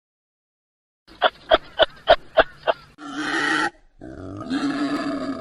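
Animal calls: after a second of silence, a quick run of six short calls, then a harsher rasping call, then a longer drawn-out call.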